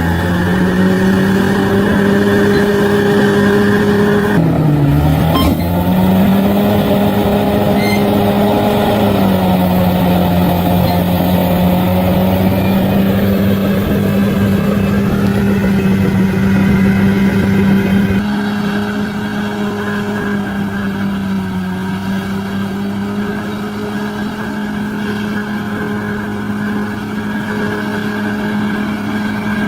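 Bulldozer's diesel engine running steadily, its pitch sagging sharply about five seconds in and then picking back up, as under a sudden load. It gets a little quieter about two-thirds of the way through.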